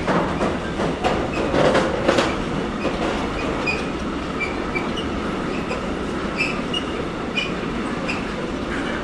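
A train passing close by: steady rolling noise of wheels on rail, with a quick run of clattering knocks in the first couple of seconds and short high-pitched wheel squeaks scattered throughout.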